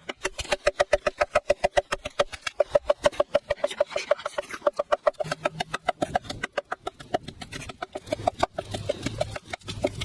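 A fast, even series of knocks, about eight a second, each with a short ringing tone, growing sparser near the end.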